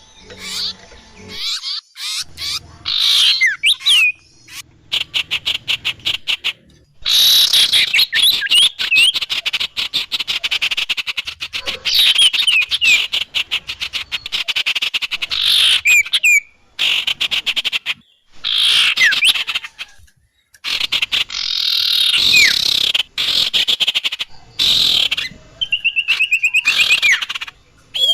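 Recorded songbird calls played as a bird lure: bursts of fast chattering trills and short whistled glides, each burst cutting off abruptly before the next starts.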